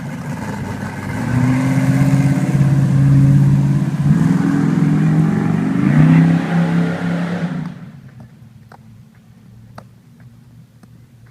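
Chevy Nova drag car's solid-roller small-block V8, a 400 destroked to 377, running loud and revving harder from about a second in. The engine sound stops abruptly about three-quarters of the way through, leaving faint scattered ticks.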